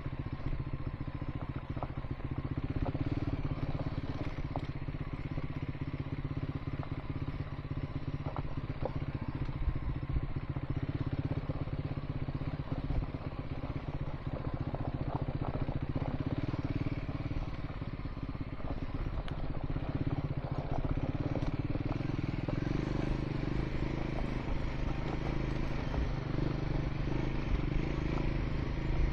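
Triumph Scrambler 400 X motorcycle's single-cylinder engine running steadily while riding a gravel dirt track, with scattered clicks and clatter from stones and the bike over the rough surface.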